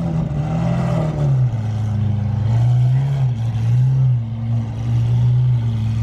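A car engine running close by, its low note rising and falling as the revs change.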